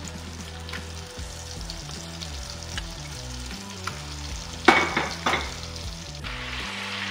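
Chicken pieces frying in hot oil and butter in an enamelled cast-iron casserole, sizzling steadily with a few loud crackles about five seconds in. The sizzle grows denser near the end.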